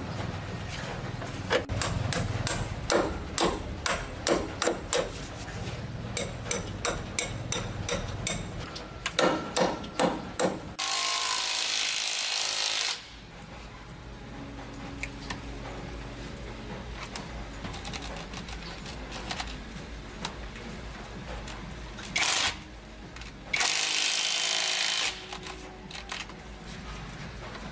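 Workshop tool sounds: a run of sharp strikes at about two a second, then a loud hiss lasting about two seconds. Two shorter hisses come near the end.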